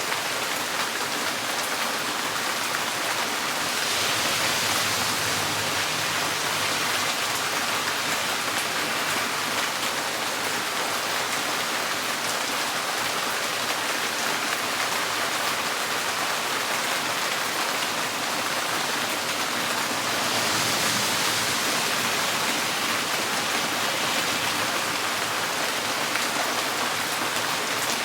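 Steady rain falling on a tin porch roof, a dense even patter. It swells slightly heavier about four seconds in and again about twenty seconds in.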